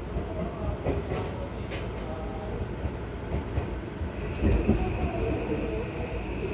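Seibu 6000 series electric train running, heard from inside the car as it nears its terminus: a steady low rumble with wheels clicking over rail joints. A steady high tone sets in about four seconds in, and a heavier knock follows half a second later.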